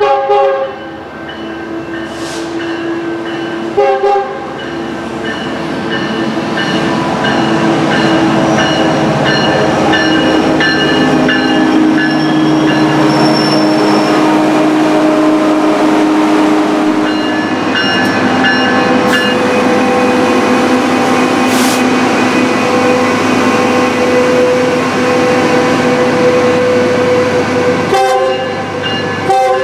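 Metrolink commuter train's diesel locomotive running and growing louder over the first several seconds. Short horn blasts sound at the start, about four seconds in, and twice near the end.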